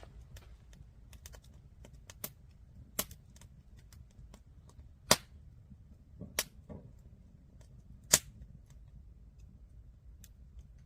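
Burning firewood crackling, with scattered sharp irregular pops, the loudest two about five and eight seconds in.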